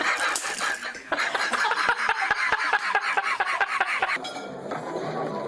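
A fast run of clinking taps, several a second, like utensils knocking on a dish, that stops abruptly about four seconds in.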